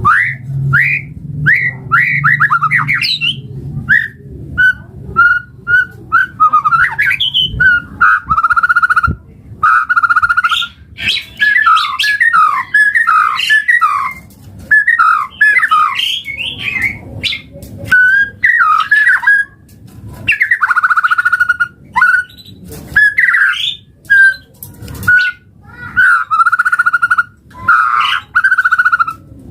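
White-rumped shama (murai batu) singing a long, varied song of whistled phrases, rapid trills and harsh buzzy notes, broken by short pauses.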